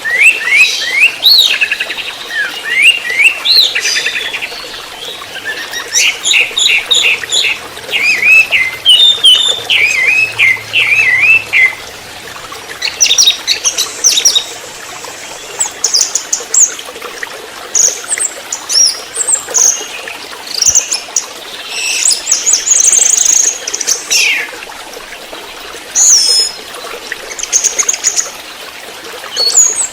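Orange-headed thrush singing a loud, varied song of quick series of short rising whistled notes, the rapid repeated 'trotol' style, moving to higher notes in the second half.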